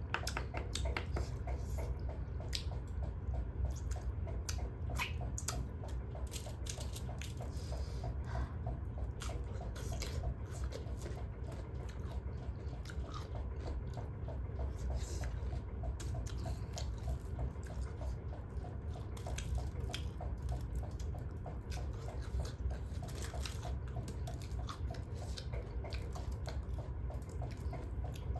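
Close-up mukbang eating sounds: a person biting and chewing food, with many short wet and crunchy mouth clicks scattered throughout, over a steady low hum.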